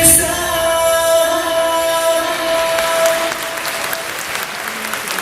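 Crowd applauding while a song's final held note rings out and fades away over the first three or four seconds, leaving the applause alone.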